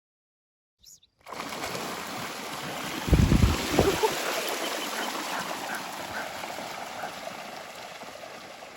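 Running or splashing water that starts abruptly about a second in, with a few heavy low thumps around three to four seconds in, then slowly fading.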